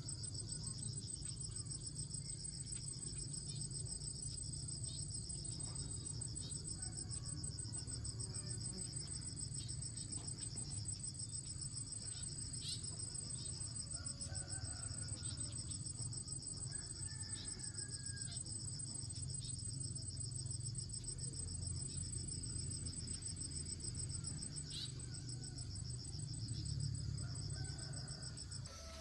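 Steady outdoor insect chorus: a fast pulsing high trill with a thin, even higher whine above it, running without a break, over a low rumble.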